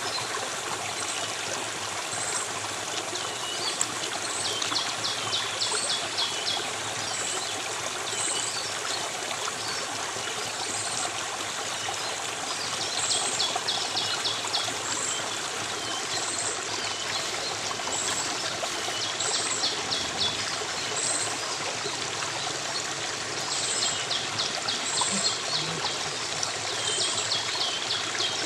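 A stream of water flowing and trickling steadily, with short high-pitched chirps every second or two and bursts of rapid trills from time to time.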